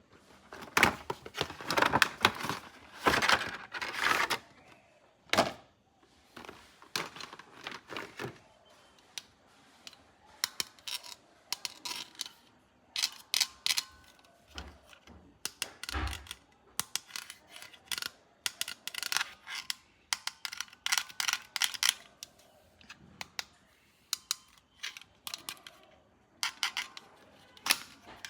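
Plastic toys and their packaging being handled in an unboxing: a run of irregular clicks, clacks and rustling, with a couple of dull thuds about midway.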